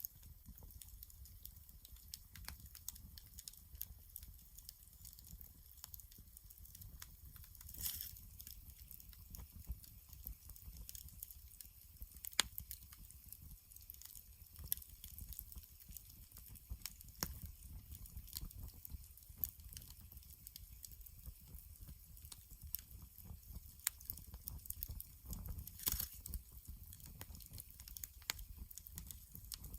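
Wood campfire crackling: a steady run of small sharp pops and ticks, with a few louder pops scattered through, over a low rumble.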